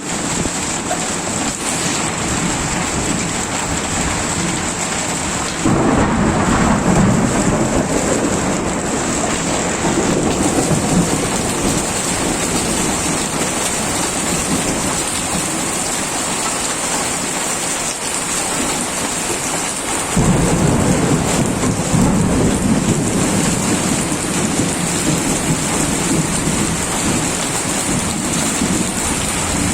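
Heavy rain falling steadily in a thunderstorm, with two rolls of thunder: one coming in suddenly about six seconds in and another about twenty seconds in.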